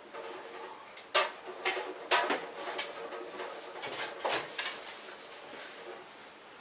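Candles and other household items being rummaged through and handled, clacking and knocking together in a series of sharp knocks, loudest in the first couple of seconds, then a lighter rattling that dies away.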